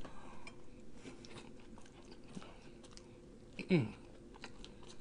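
Close-miked chewing and biting of a fast-food sandwich, with soft wet mouth clicks throughout. A short falling hum from the eater stands out about three and a half seconds in.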